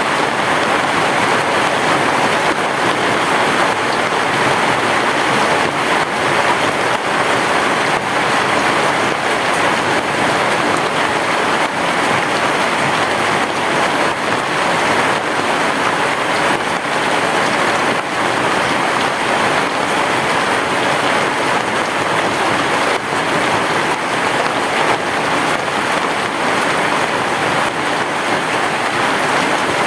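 Heavy rain falling steadily on a roof: a dense, even hiss of countless drops with no thunder and no change in strength.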